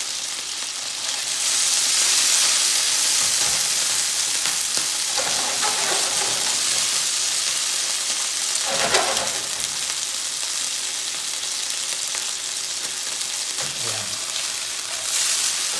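Leftover chicken adobo pieces and onion sizzling in hot oil in a frying pan, being fried until slightly crisp. There is a sharp knock about nine seconds in, and near the end the pan is tossed and the sizzle briefly gets louder.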